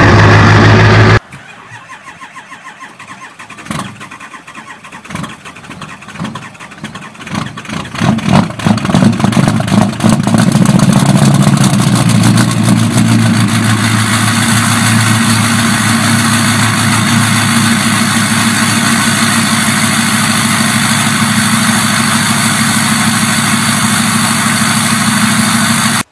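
About a second in, one loud engine sound cuts off. Then a cold engine is cranked: it fires unevenly at first, the firing grows quicker and louder, and it catches after about eight seconds and runs steadily.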